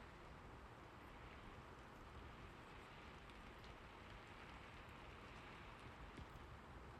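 Faint, steady rain: an even hiss with a few light drop ticks.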